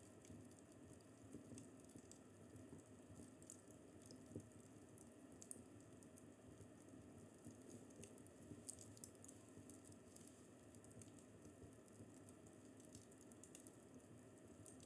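Faint crackling of a wood fire in a fireplace: scattered, irregular small pops and snaps over a low steady hum.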